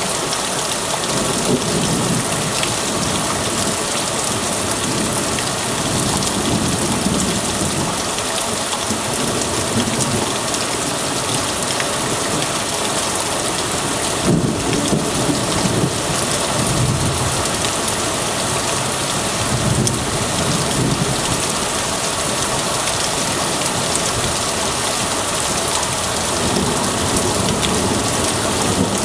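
Heavy downpour hissing steadily, with rolls of thunder rumbling low and coming and going several times.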